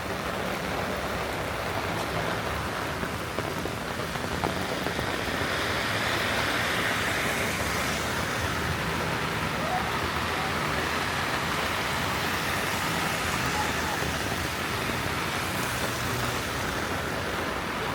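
Steady rain falling on the street, with tyres hissing on the wet road as a vehicle passes in the middle.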